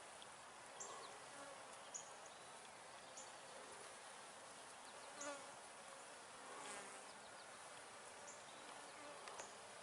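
Faint buzzing of honey bees flying at a hive entrance, with single bees passing close twice, about five and seven seconds in. Short high chirps sound about once a second in the background.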